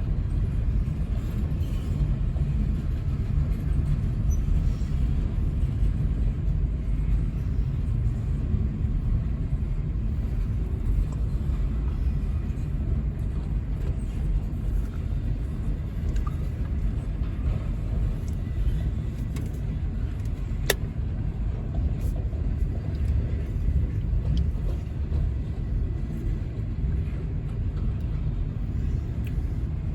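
Freight train rolling slowly past, a steady low rumble, with one sharp click about 21 seconds in.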